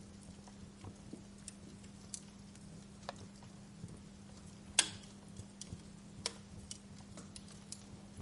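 Wood fire crackling: irregular sharp pops and snaps over a low steady hum, the loudest snap about five seconds in.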